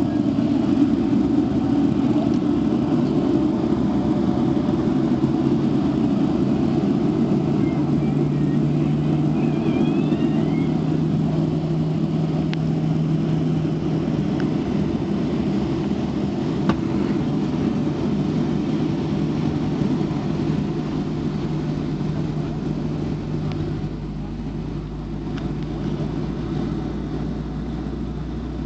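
Steady rushing and humming cabin noise of a Boeing 737-700 on the ground during pushback and start-up, with a low hum that shifts deeper about 23 seconds in.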